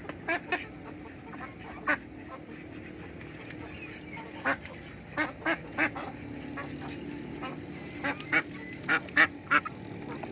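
Ducks quacking: about a dozen short, loud calls, some single and some in quick runs of two or three, with a steady low background sound throughout.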